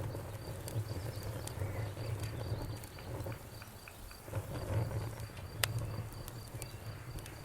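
Campfire crackling with scattered sharp pops, the loudest about five and a half seconds in, over a low steady rumble, while a cricket chirps in an even pulse at one high pitch.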